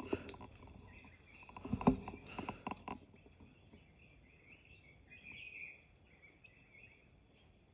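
Small birds chirping and twittering in a fruiting fig tree's canopy, with short warbling calls that come thickest about five seconds in. A few knocks and clicks of handling in the first three seconds.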